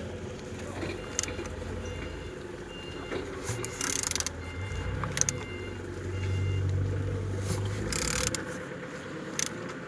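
Used car engine being turned over by hand, with light clicks and two hissing puffs of air about four seconds apart, over a steady low hum.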